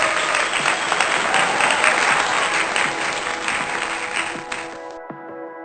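Applause over background music. The clapping cuts off abruptly about five seconds in, leaving the music playing on its own.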